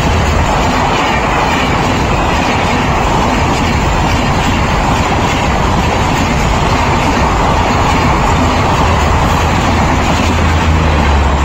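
Indian Railways passenger train with ICF coaches running along the track: a steady, loud rumble and rattle of the coaches, with a deeper rumble building over the last few seconds.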